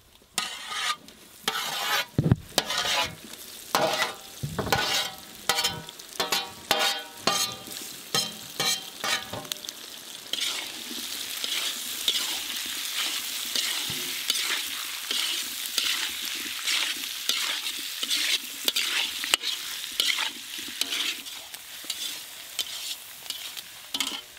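Lamb kidneys scraped with a metal spatula off a steel plate into a hot iron kadai, clattering and ringing, then from about ten seconds in a steady sizzle as the kidneys fry in oil and masala, with the spatula scraping and stirring through the pan.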